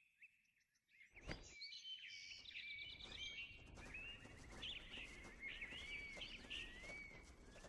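Several birds chirping with short rising and falling calls over a faint steady background. The first second is near silence.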